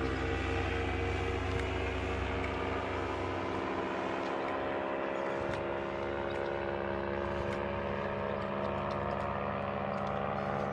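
Paramotor engine and propeller running steadily at an even speed.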